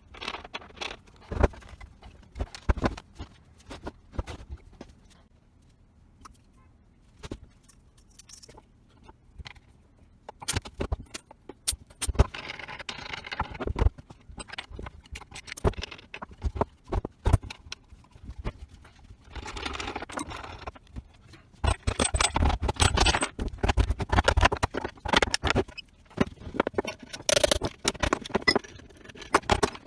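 Workshop handling noise: irregular clinks and knocks of hard objects and tools being picked up and set down, with a few stretches of scraping or rubbing a couple of seconds long.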